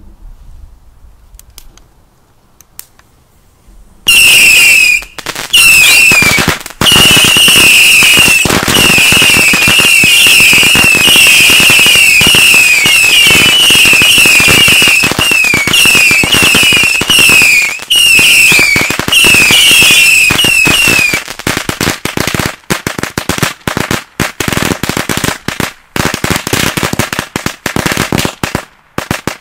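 Ground-fired fireworks: about four seconds in, a loud, dense run of rapid bangs starts, mixed with many short, falling whistles. The whistles stop about two-thirds of the way through, while the rapid bangs and crackle go on, thinning out near the end.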